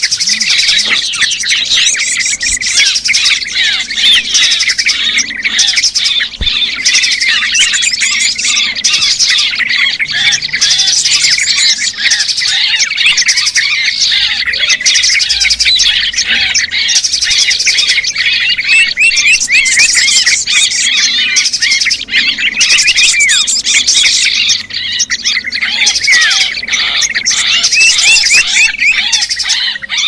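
Loud, dense chatter of many small birds chirping and twittering over one another without a break: a noisy small-bird lure call (suara pikat), the kind played to draw small birds in.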